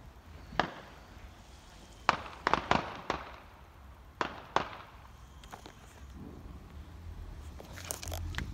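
Fireworks going off: about seven sharp bangs popping off at irregular intervals in the first five seconds, then a quieter stretch.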